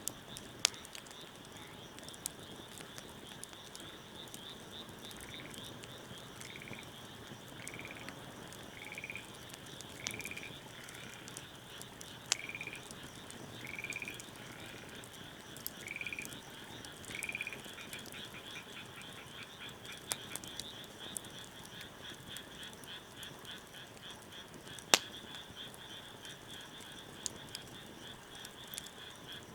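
A frog calling a series of short notes about a second apart, which turn into a rapid trill, over a steady high, pulsing chorus. A few sharp crackles from a wood fire, one louder near the end.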